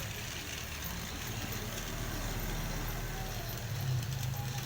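Two toy trains running along their track, a steady low motor hum.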